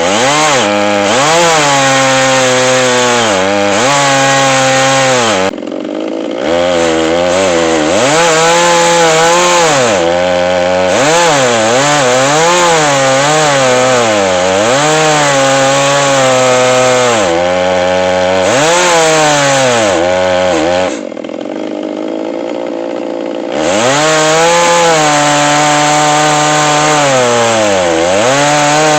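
A chainsaw ripping a log lengthwise in an Alaskan chainsaw mill, its engine speed sagging under load and recovering over and over. The engine drops back to idle briefly twice, once about six seconds in and once for a couple of seconds near the end. The cut goes slowly, which the owner puts down to running a regular chain rather than a milling chain.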